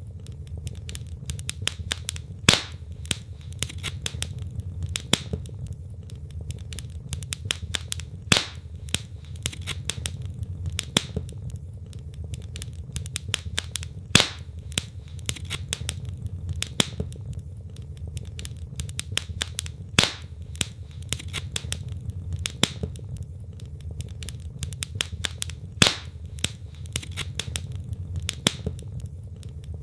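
Wood logs burning in a fireplace, crackling with many small snaps and a louder pop about every three seconds, over a steady low rumble of the fire.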